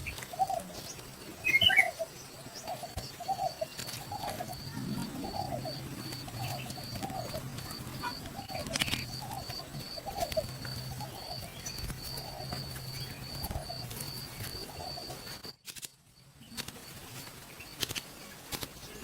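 A forest bird calling a repeated low hooting note, about one to two a second, over a thin steady high-pitched drone, with a brief higher chirp about two seconds in. The sound cuts out briefly near the end.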